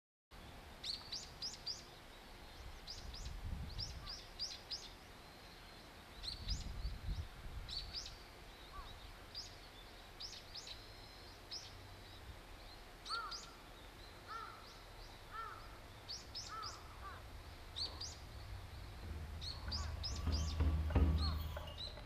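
Small birds chirping in short, high, repeated calls, with a second bird giving lower arched calls in the middle stretch. This sits over faint outdoor ambience, with a low hum building near the end.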